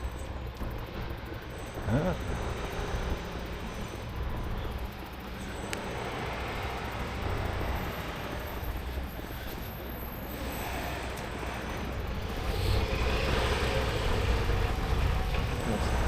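Wind rushing over the microphone and tyre and road rumble while riding an e-bike, a steady low rumble that grows a little louder near the end. A short rising squeak comes about two seconds in.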